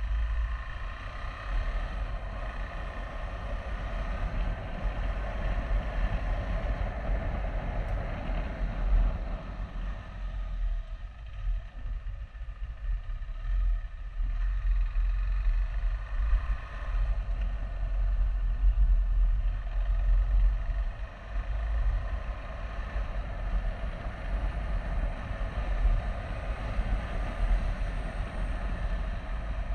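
KTM 390 Adventure's single-cylinder engine running at low speed in second gear, with a heavy low rumble of wind on the microphone. The engine note drops back about ten seconds in and picks up again a few seconds later.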